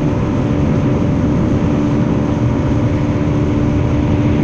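A fishing boat's motor running steadily at speed, a constant hum over a dense low rumble.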